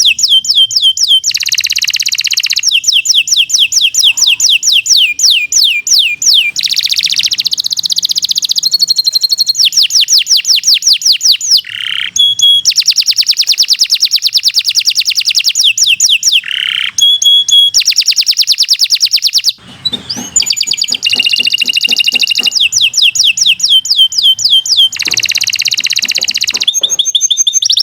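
Domestic canary singing a long unbroken song of fast trills, rolls and repeated chirping notes, switching from one phrase to the next every second or two with hardly a pause. This is the long, non-stop "gacor" song used as a master recording for training other songbirds.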